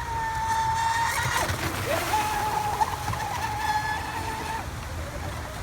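High-pitched whine of a Pro Boat Voracity RC boat's brushless motor running at speed over low water and wind noise. The whine falls in pitch about a second and a half in, climbs back half a second later and holds steady, then falls away again near the end as the throttle comes off.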